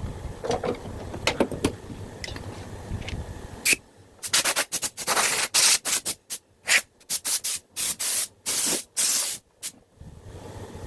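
A few light clicks, then compressed air blown from a nozzle in about a dozen short, loud bursts of hiss, each cut off sharply. The air comes from a homemade compressor built from a refrigerator compressor.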